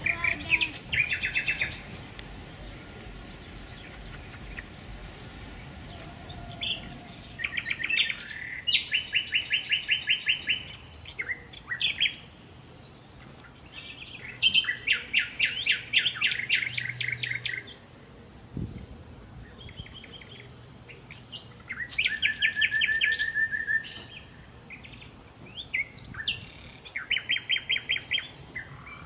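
Songbirds singing in short, fast trilled phrases, repeated about a dozen times with brief pauses between them.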